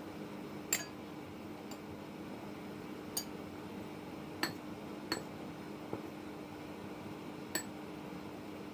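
Kitchenware clinking sharply five times at irregular intervals, over a steady low hum and hiss.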